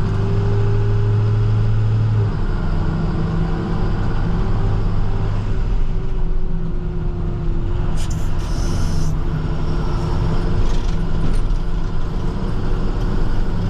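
Diesel engine of an International TerraStar plow truck running steadily as it drives, a low drone with a faint tone that slowly drifts lower. A short hiss comes about eight seconds in.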